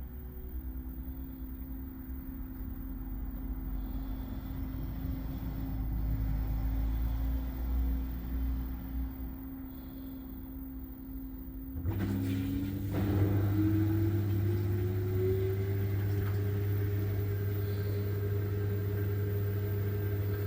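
LG front-loading washing machine on its spin cycle: the drum motor runs with a steady whine, then about twelve seconds in it speeds up, the whine rising in pitch over a few seconds before holding at the higher speed.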